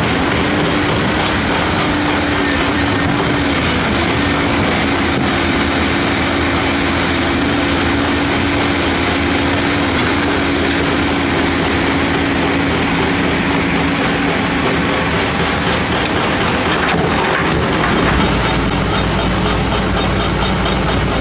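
Heavy diesel engine of a large crawler excavator running under load, with a steady whine. Near the end the sound settles to a lower, more even engine hum.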